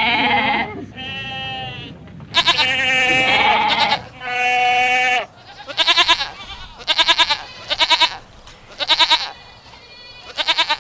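Goat bleats: several long, drawn-out bleats over the first five seconds, then a run of short, quavering bleats about once a second.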